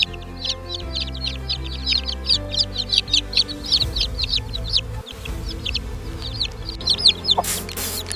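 Rapid, high-pitched peeping of young birds, several short falling chirps a second, over background music with held low notes. Near the end, a few brief noisy rustling bursts.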